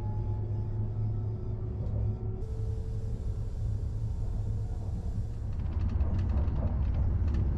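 Renfe Class 449 electric multiple unit running at speed, heard from inside the carriage: a steady low rumble with a few faint steady tones above it. A light hiss joins about two and a half seconds in.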